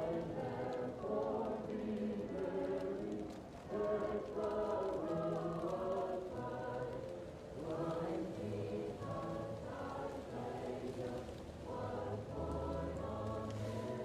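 Choir singing in long, slow phrases, muffled as if heard from another room. A wood fire crackles faintly beneath it.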